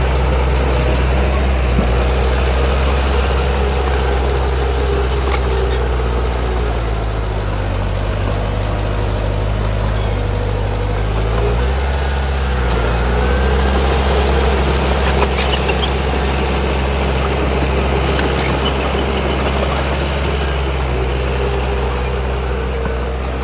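Heavy diesel engine of a bulldozer running steadily. Its pitch sags about a third of the way in and rises back about halfway through, as the engine takes and sheds load.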